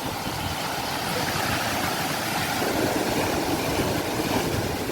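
Sea waves washing onto the shore: a steady rushing with a low rumble underneath, swelling a little louder a second or two in.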